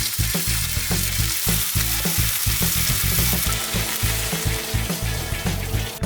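Food sizzling and frying in a hot pan, a steady crackling hiss, with background music low underneath.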